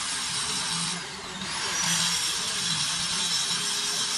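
Handheld high-speed power tool running. About a second in it eases off, its pitch falling, then spins back up and runs on steadily.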